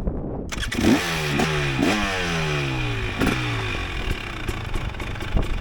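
Dirt bike engine under throttle on a rough trail: the revs rise sharply three times and fall away in long glides as the throttle closes. Wind rushes over the microphone, with a few knocks and clatter from the bike over the ground.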